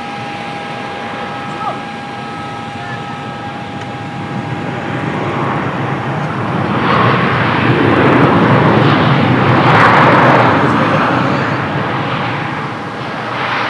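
Jet airliner passing, most likely a Japan Transocean Air Boeing 737-800. The rushing engine noise swells over several seconds to a peak about ten seconds in, then eases off.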